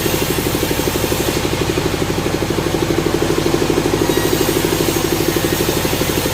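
A sawmill's engine running steadily, with a fast, even pulse.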